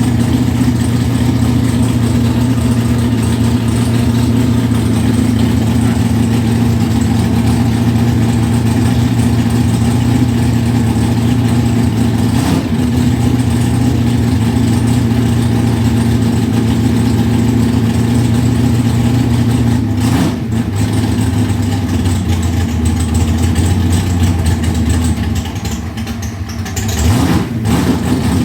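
548 cubic-inch big-block Chevy V8 on E85, idling after a cold start. The idle speed drops about two-thirds of the way through, and near the end the level dips and the engine picks up briefly.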